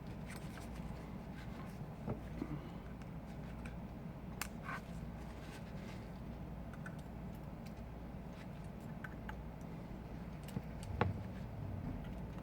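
Steady low hum, with a few light clicks and taps, about two, four and eleven seconds in.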